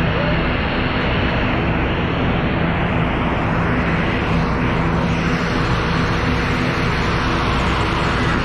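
Aircraft engines running steadily: a loud, even rush of noise with a constant low hum beneath.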